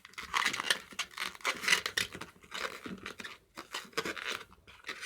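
Inflated latex modelling balloon being twisted and handled, rubbing and creaking in irregular bursts.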